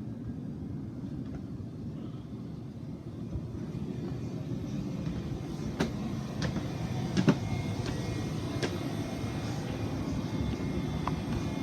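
Steady low rumble with a few light knocks; the sharpest knock comes about seven seconds in.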